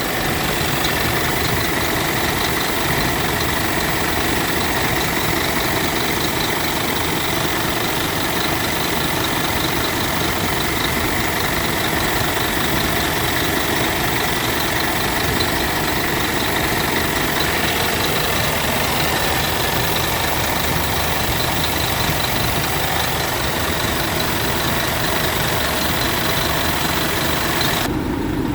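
Scania P truck's diesel engine idling steadily.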